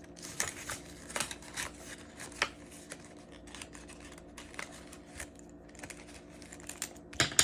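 Paper rustling and small clicks of cash and envelopes being handled as bills are slipped into a pocket, over a faint steady hum, with one sharper knock near the end.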